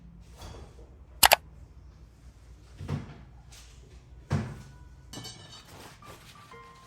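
A sharp double click about a second in, then two softer thuds a second and a half apart, like a door or cupboard being handled in a small room.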